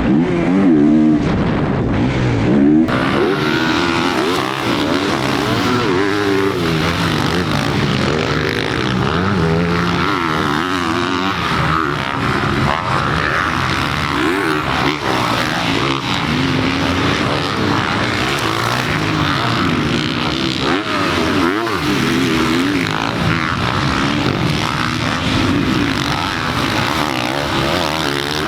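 Dirt bike engine revving up and down again and again as it is ridden hard around a motocross track.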